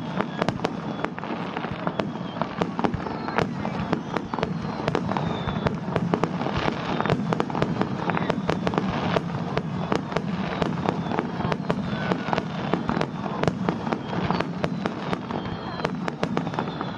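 Aerial fireworks going off in a dense, continuous run of bangs and crackles, several sharp reports a second.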